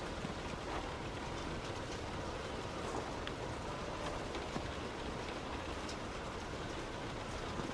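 Heavy rain striking a moving car: a steady hiss dotted with many small sharp drop ticks, over the car's road noise.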